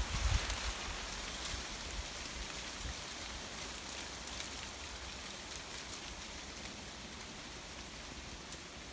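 Steady rain falling, with a few low thumps in the first second.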